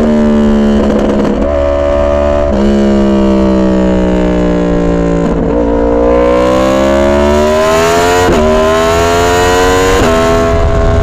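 2022 Yamaha R1's crossplane inline-four engine under way. The revs sag for a few seconds, then climb steadily from about the middle, with sudden drops in pitch about eight and ten seconds in as it shifts up.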